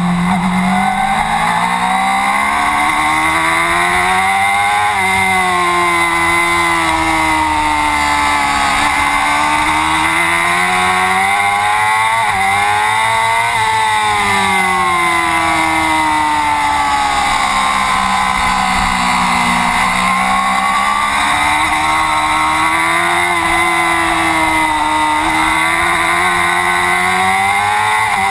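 Racing motorcycle engine at full race pace. Its pitch climbs under acceleration and drops sharply on shifts and braking, again and again, as the bike laps the circuit.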